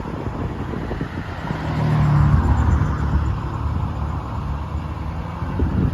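Ford 5.0 L V8 engine running, swelling louder for a moment about two seconds in, then settling back to a steady run.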